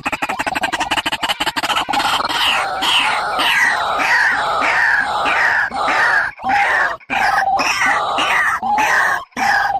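Bird calls from a lure recording: a fast pulsing call at first, then repeated down-slurred notes about twice a second.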